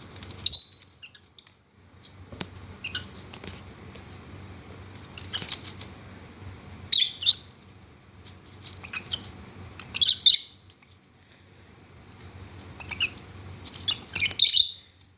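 Lovebirds squawking and chirping in short, loud, high-pitched bursts about every two to three seconds, the sound of the hormonal females bickering.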